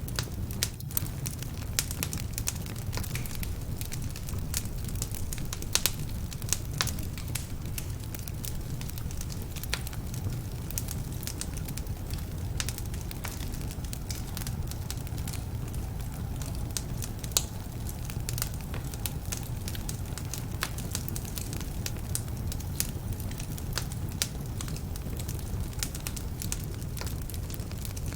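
Wood fire burning in a fireplace: a steady low rumble of flames with frequent sharp, irregular crackles and pops from damp logs.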